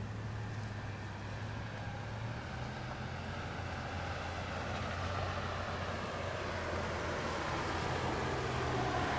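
A vehicle's engine hum and tyre noise from a street below, growing gradually louder as it approaches.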